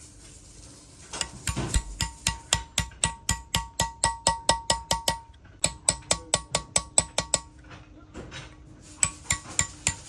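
Rapid hammering on metal, about four or five blows a second, each blow ringing. The blows come in runs broken by short pauses.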